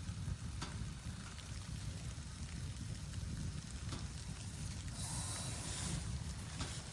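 Blizzard wind buffeting the microphone as a steady low rumble, with a few faint ticks and a brief hiss about five seconds in.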